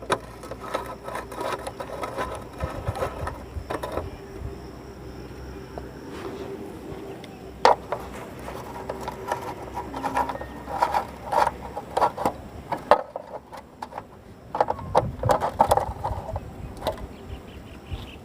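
Clicking, clinking and rattling of a socket wrench and metal bolts and parts as a motorcycle chain cover is unbolted and taken off, with many short irregular knocks.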